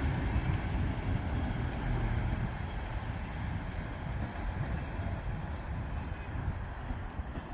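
Class 158 diesel multiple unit running in to the station, a steady low rumble that eases slightly toward the end.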